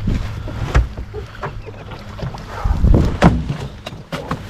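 Irregular splashing and knocking as a retriever comes back through the water with a downed duck, the loudest splashes about a second in and again about three seconds in, over low wind rumble.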